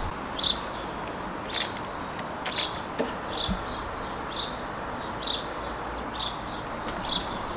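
Small birds chirping in short, repeated calls and trills, with a couple of sharp clicks about one and a half and two and a half seconds in.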